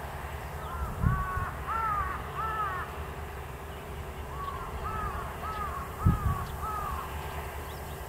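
A bird calling: two runs of short, down-slurred notes, about three a second, the first run starting about a second in and the second near the middle. A couple of short low thumps come near the start and about three-quarters of the way through.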